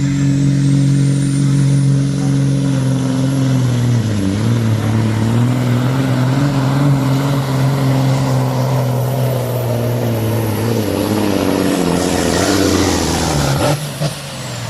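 Pulling truck's heavily tuned diesel engine running flat out with a high turbo whistle. About four seconds in the engine note dips and then wavers. It cuts off sharply near the end, and the whistle falls away.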